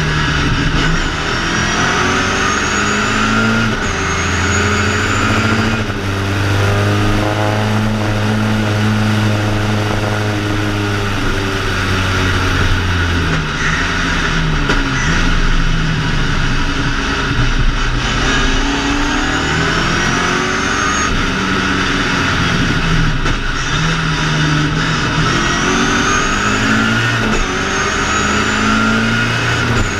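BMW 2002 ti race car's four-cylinder engine at racing revs, heard from inside the cabin. The pitch climbs and drops back with each gear change, holds steady for several seconds, and falls away about a third of the way in before climbing again.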